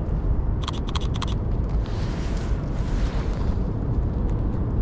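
Wind buffeting the microphone in a steady low rumble. A quick run of about six sharp clicks comes about half a second in.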